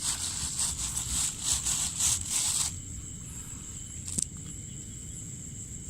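Steady high-pitched drone of insects, with irregular rustling and scraping for the first two and a half seconds that stops abruptly, and a single sharp click about four seconds in.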